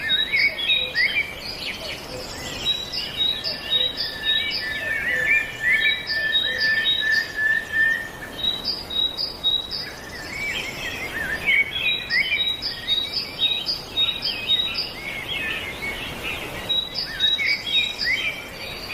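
Several birds chirping and singing together, short high notes overlapping, with one bird repeating a quick series of identical short notes over and over.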